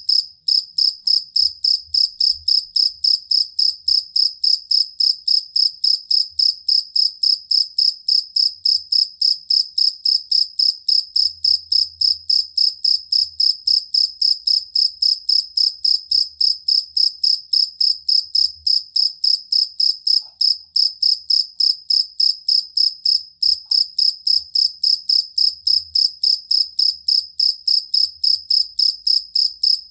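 Field cricket (jangkrik kalung, the two-spotted cricket) singing: a steady, unbroken run of short, evenly spaced high-pitched chirps, about three or four a second.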